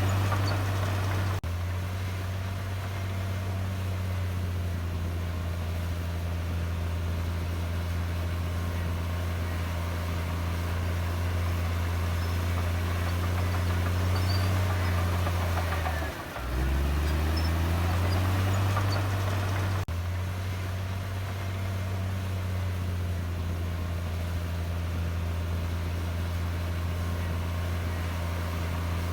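Heavy diesel engine of earthmoving machinery running steadily. About sixteen seconds in its pitch sags, cuts out briefly, and picks back up.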